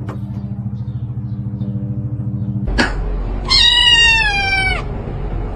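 A cat meows once, a single call of just over a second that falls slightly in pitch, about three and a half seconds in. Before it there is a low, steady pulsing hum, cut off by a sharp click just before the meow.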